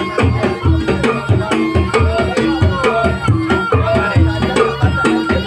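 Javanese folk ensemble music for a trance dance: hand drums beat a fast, steady repeating rhythm under a melody that bends in pitch.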